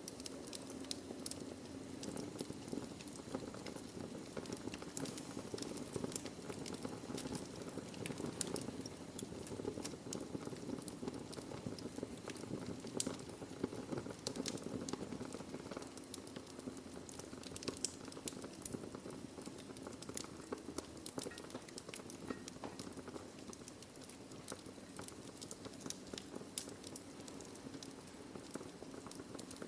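Logs burning in a fireplace: a steady low rush of flame with many sharp, irregular crackles and pops of the wood.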